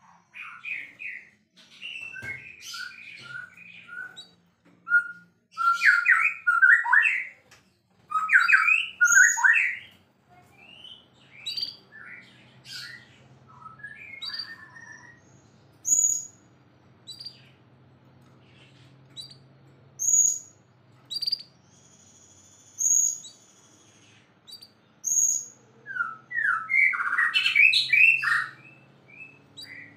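White-rumped shama singing: bursts of rapid, varied whistled phrases in the first ten seconds and again near the end, with single sharp high notes a few seconds apart in between and one longer held high whistle around the middle.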